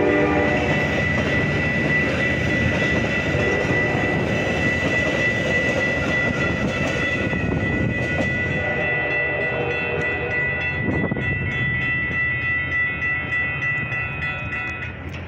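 Metra commuter train's bilevel cars rumbling over a grade crossing while the crossing's warning bell rings steadily. The tail of the train horn dies away in the first second, and the rumble fades as the train pulls away.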